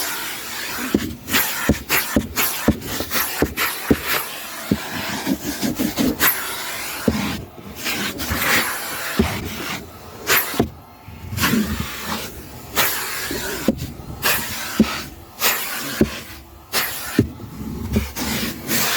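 Irregular clicks, knocks and rubbing, as of things being handled and bumped, with no steady motor running.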